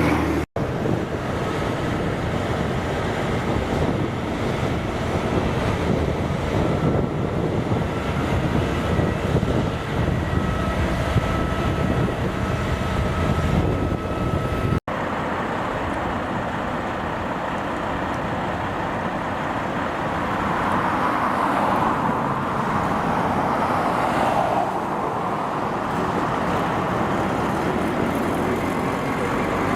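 Heavy road traffic: trucks driving past on a road. The sound is steady throughout, with a louder pass building in the later part. It cuts out abruptly twice, about half a second in and again midway.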